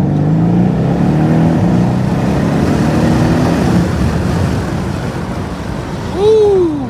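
Mercedes-AMG E63 S 5.5-litre twin-turbo V8 under hard acceleration with the window open, its note rising steadily over the first few seconds and then giving way to a rough rush of engine, road and wind noise. Near the end comes a short, loud tone that rises and falls.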